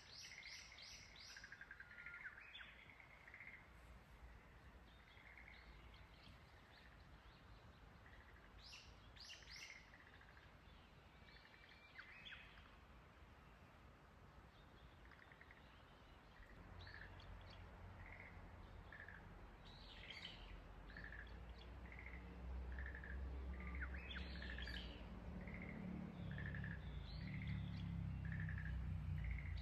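Faint birdsong: short chirps repeated about every 0.7 s, with brief higher call clusters from other birds now and then. A low rumble starts a little past halfway and grows louder toward the end.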